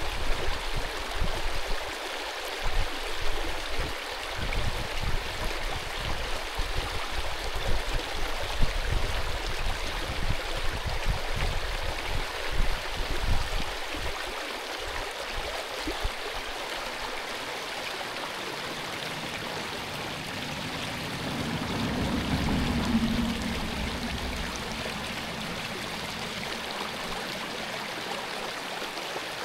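Mountain stream rushing steadily over rocks, with irregular low buffeting through the first half.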